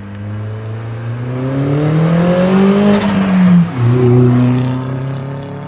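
Turbocharged Audi A4 with its muffler deleted, accelerating: the loud exhaust note climbs in pitch, drops sharply at a gear change about three and a half seconds in, then pulls again and eases off.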